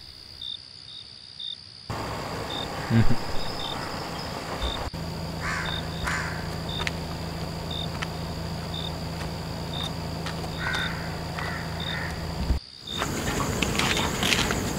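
Night outdoor ambience: crickets chirping in an even, repeating rhythm, joined partway through by a steady low hum that cuts off abruptly near the end, with a few short calls scattered over it.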